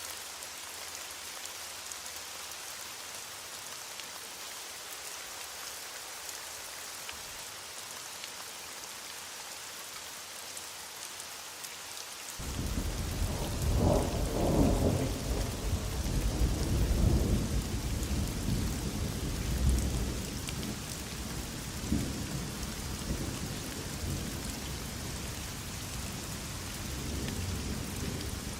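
Heavy rain falling steadily with an even hiss. About twelve seconds in, a rumble of thunder starts suddenly, swells over the next few seconds and keeps rolling with smaller peaks as it slowly fades under the rain.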